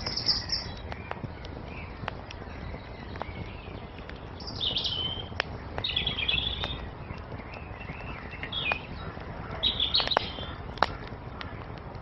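Wood fire crackling with scattered sharp pops over a steady low rumble, one louder pop near the end, while small songbirds chirp and sing in short phrases every second or two.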